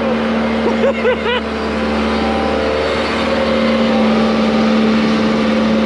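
A John Deere 120 excavator's diesel engine runs steadily, its hum growing slightly louder after about two seconds. A brief voice sounds about a second in.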